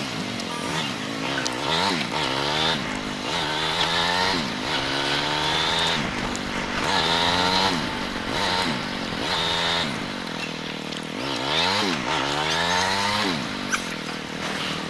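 Motorcycle engine speeding up and easing off over and over, its pitch climbing and then dropping every second or two.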